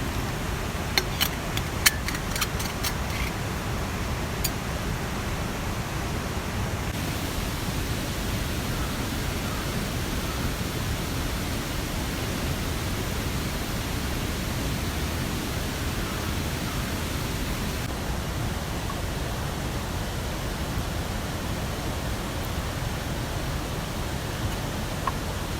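Steady rush of water, rain or a mountain stream, with a few sharp clicks in the first few seconds.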